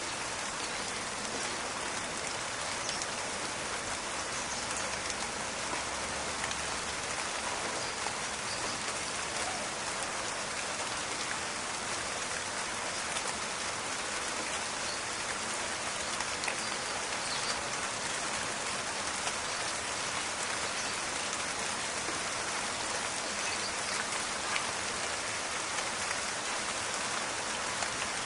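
Steady rain falling in a forest, a dense even patter with many small crackling drop impacts.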